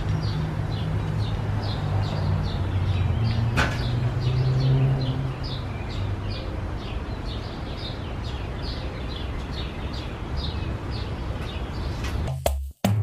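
A bird chirping over and over, about three short falling calls a second, over a low steady hum. There is a single sharp click about three and a half seconds in. Near the end it cuts to music with sharp percussion strikes.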